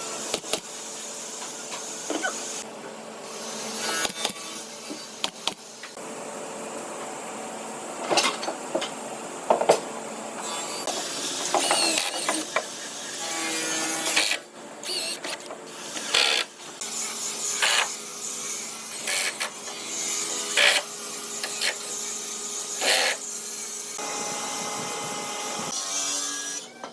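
Woodworking noise: tools working on wood, with irregular knocks, clicks and short rasping bursts over a steady hiss and a faint hum.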